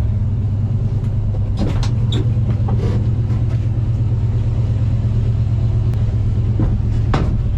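1985 Ford F250 pickup engine idling steadily with an even low rumble, with a couple of light knocks near the start and end.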